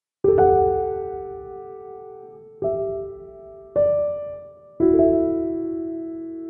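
Background music of slow piano chords: four chords struck about a second or two apart, each left to ring and fade.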